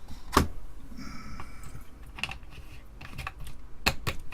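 A few sharp clicks and taps of hard objects being handled on a workbench, two of them close together near the end.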